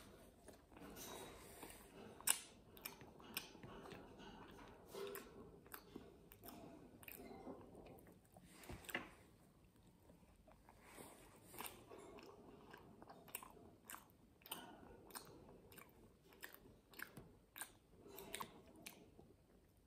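A person biting and chewing a flaky veg and chorizo pastry close to the microphone, with many small crisp crunches. The sharpest crunches come about two seconds in and again near nine seconds.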